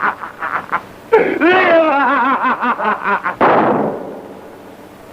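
A man laughing wildly in rapid bursts, then a single gunshot about three and a half seconds in that rings briefly and fades into steady film hiss.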